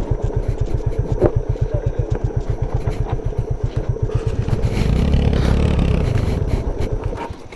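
Motorcycle engine running at low speed with an even exhaust beat of about eight pulses a second. The engine is opened up briefly about five seconds in, and the beat fades out near the end.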